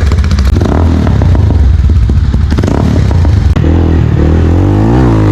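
Motorcycle engine running loudly through an aftermarket exhaust, with a rapid, rough pulsing beat; past the middle the sound smooths out and the engine's pitch falls and then climbs again as it is revved.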